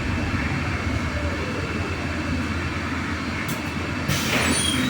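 Cabin noise of a MAZ-303E10 electric bus under way: a steady low hum with road and running noise. About four seconds in, a sharp hiss of air starts and lasts to the end.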